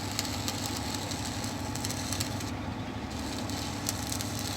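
An engine running steadily at idle, a low even drone with faint irregular crackling on top.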